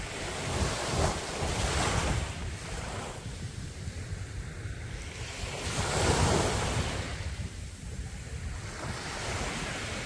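Ocean waves breaking on a beach, the surf swelling twice, about a second in and again around six seconds in. Wind rumbles on the microphone throughout.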